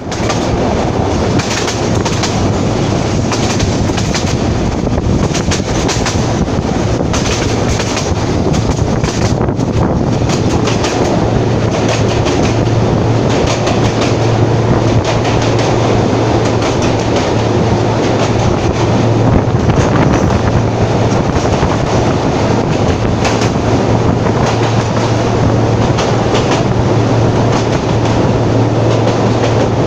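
Narrow-gauge passenger train running along the track: a steady rumble and rattle with a low hum underneath, and frequent clicking of the wheels over the rails.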